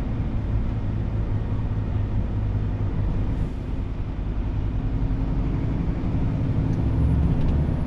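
Scania truck's diesel engine running steadily, heard from inside the cab while driving, getting a little louder near the end.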